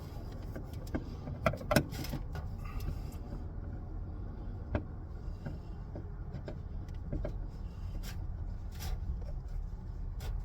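Scattered clicks and scrapes of a long Phillips screwdriver probing a plastic overhead console for a hidden screw head, loudest about a second and a half in, over a steady low rumble.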